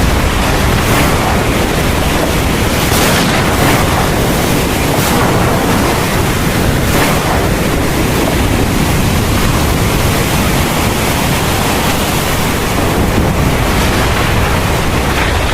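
Heavy thunderstorm rain pouring steadily, with a deep continuous rumble underneath and small surges in the hiss every couple of seconds.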